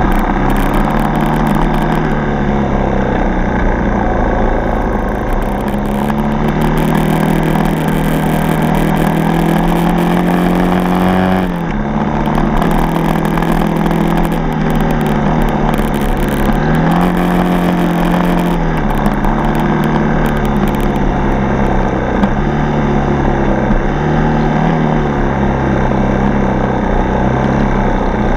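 Yamaha TT-R230 dirt bike's single-cylinder four-stroke engine running while riding, its revs changing with the throttle: the pitch climbs for several seconds, drops sharply about twelve seconds in, then rises and falls a few more times.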